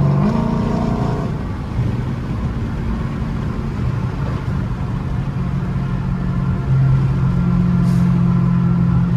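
Dodge Charger Scat Pack's 392 (6.4 L) HEMI V8 running through a straight-piped exhaust while driving. It is a steady, loud engine note whose pitch steps up and down a few times as the throttle and gears change.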